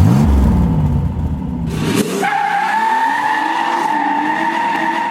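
A car engine revving, then a steady, high-pitched tyre squeal from about two seconds in that holds until it cuts off abruptly.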